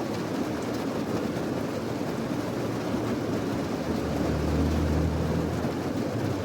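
Steady rain, a dense even hiss, with a low rumble that swells about four seconds in and fades a second and a half later.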